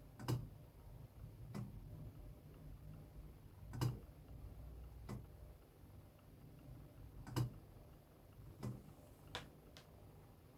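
Decorative electric LED fireplace playing its built-in crackling-log sound effect: about eight sharp, irregular pops and snaps, one to two seconds apart, over a faint low background.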